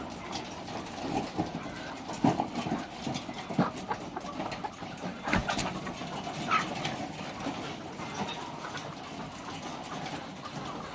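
Laying hens in a poultry house, with irregular short squawks and calls over scattered clicks and knocks.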